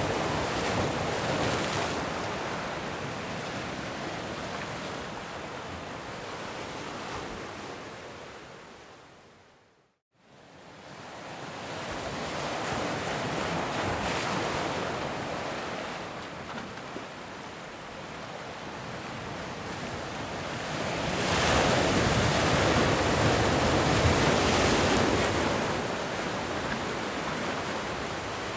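Ocean surf washing in steady rushing swells that rise and fall. About a third of the way through it fades out to silence and fades back in, and the loudest swell comes about three-quarters of the way through.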